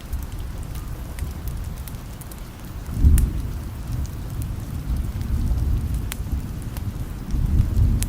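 Steady rain with a low rolling rumble of distant thunder that swells about three seconds in and again near the end.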